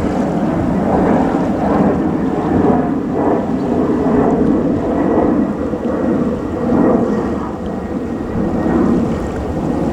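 Jet airliner engines rumbling loudly and steadily, with a rough, fluctuating crackle and no clear tone.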